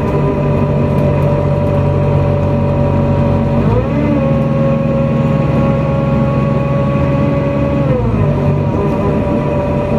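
NefAZ-5299 city bus heard from inside the cabin: steady engine drone and drivetrain whine. The pitch rises about four seconds in, holds, and drops back a little before the end as the bus speeds up and then eases off.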